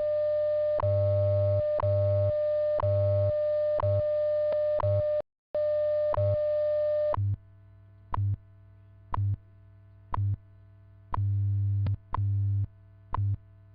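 WWV shortwave time-signal broadcast: a steady 600 Hz audio tone with a short tick every second and a low hum pulsing in on-off blocks of varying length, the 100 Hz time code. The signal drops out for a moment about five seconds in, and the tone stops about seven seconds in, leaving only the second ticks and the time-code pulses.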